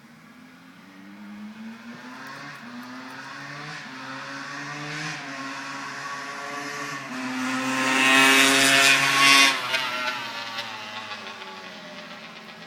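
Dirt bike engine accelerating through several gears, its pitch climbing and dropping back at each shift. It grows louder, is loudest a little past the middle as it comes closest, then fades as it moves away.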